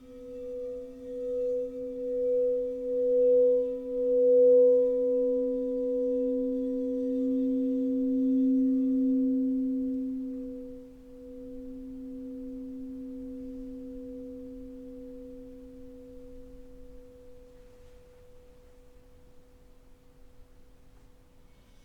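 A singing bowl sounds a low tone with a second tone about an octave above it. It pulses and swells for about ten seconds, dips, then rings on steadily and slowly fades.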